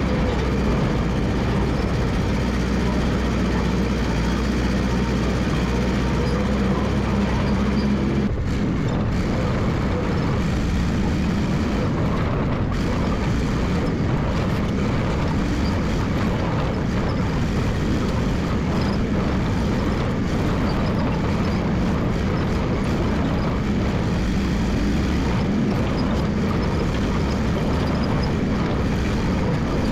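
Massey Ferguson 300 crawler dozer engine running. It holds a steady, even note for the first eight seconds or so, then turns rougher and less even for the rest, as the machine works.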